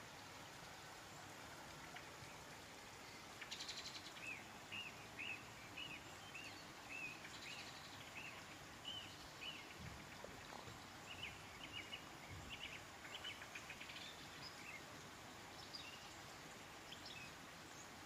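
Wild birds calling: a long run of short, faint chirps repeating at a similar pitch, several a second in places, beginning a little over three seconds in, over a steady background hiss.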